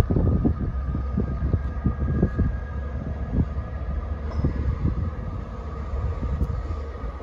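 Diesel multiple-unit train approaching the platform, a low engine rumble with a few faint steady whining tones above it. Gusts of wind buffet the microphone.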